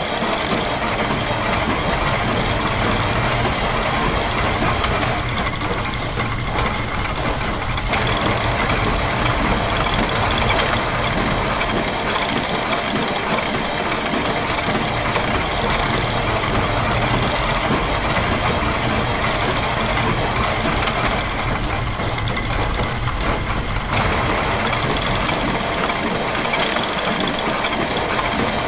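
Layered loops of factory machine sounds, with gears and ratchets clicking over a steady engine-like running, making a dense, continuous mechanical soundscape. The high hiss thins out twice for about three seconds, about five seconds in and again near 21 seconds.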